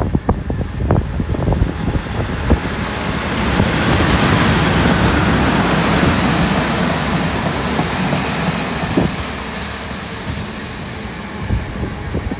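Class 37 diesel locomotive running past close by at speed, a loud rushing rumble that swells as it draws level, then the steadier rumble of the coaches it is hauling. A thin, steady high squeal from the wheels starts near the end, and wind buffets the microphone at the start.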